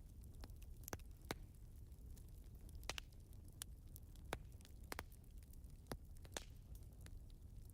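Wood fire crackling: irregular sharp pops and snaps, a few louder than the rest, over a low steady rumble.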